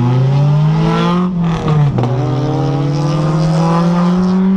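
Loud sports car engine accelerating: the pitch climbs, drops sharply about a second and a half in as it shifts up a gear, then climbs slowly again.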